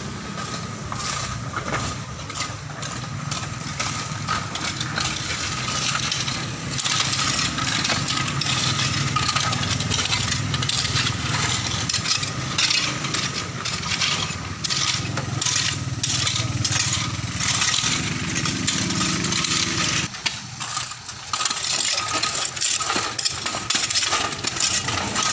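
An engine runs steadily under a constant clatter of many sharp clicks and clinks, typical of stones and gravel being worked during road repair. The engine's low sound drops away about twenty seconds in, then partly returns.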